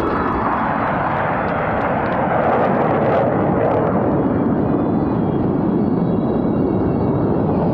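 Blue Angels F/A-18 Super Hornet jets flying past, a loud, steady jet roar that sinks in pitch as they pass.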